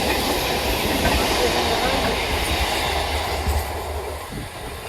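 Electric multiple unit local train running by on the rails, its wheels clattering, with a faint squeal from the wheels on the curve in the first second or two. The noise dies down from about three and a half seconds in.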